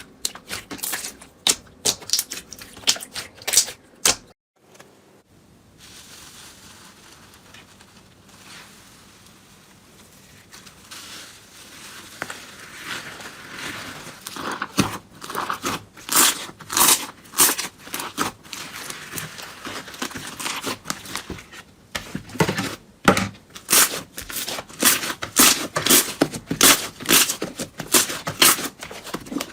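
Slime being squeezed and pressed by hand, making runs of sharp crackling clicks and pops. There is a brief quiet gap about four seconds in, then softer squishing that builds to dense popping near the end.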